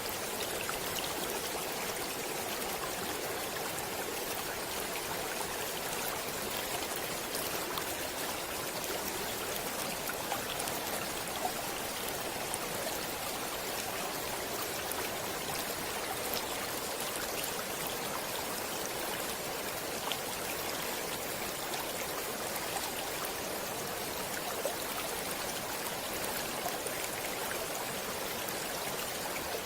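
A stream of water running steadily over rocks, a continuous rushing hiss with small splashes and drips scattered through it.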